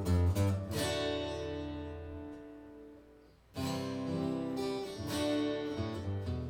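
Acoustic guitar strumming chords in an instrumental passage. About a second in, a chord is left to ring and fade away. Strumming starts again sharply about three and a half seconds in.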